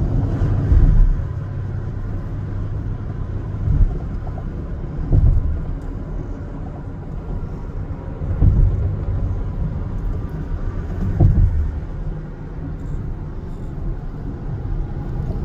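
Freightliner Cascadia semi-truck running down the road: a steady low engine and road rumble with a few brief louder swells.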